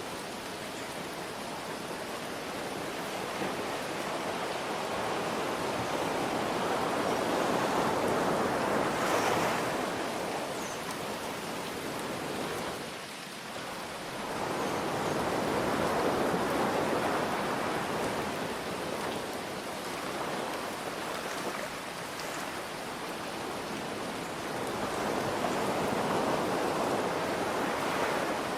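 Ocean waves breaking and washing in, swelling and fading about three times, over a steady hiss of rain.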